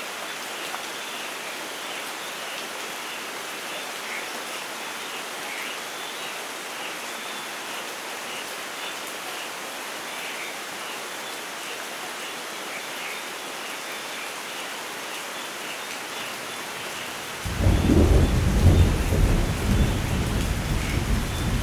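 Steady rainfall hissing, with faint high chirps in the background. About 17 seconds in, a loud, low rolling rumble of thunder breaks in and keeps rumbling.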